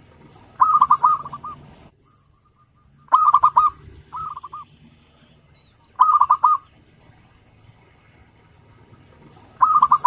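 Zebra dove (perkutut) cooing: four phrases of quick, rapidly repeated ringing notes, roughly one every three seconds, the second followed by a short extra group of notes.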